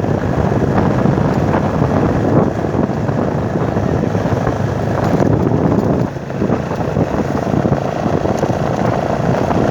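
Motorcycle riding at road speed: engine and road noise with wind buffeting the microphone, easing briefly about six seconds in.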